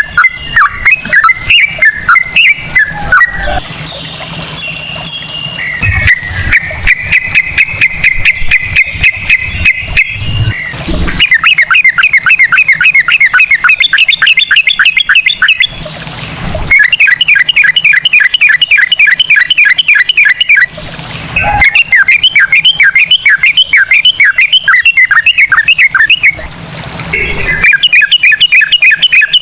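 Trucukan (yellow-vented bulbul) singing in long rapid phrases. Varied, warbling notes and a held, wavering note give way after about ten seconds to runs of fast repeated notes, broken by short pauses.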